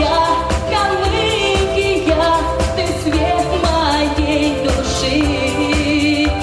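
A pop-style song: a singer's melody with wavering held notes over a backing track with a steady beat.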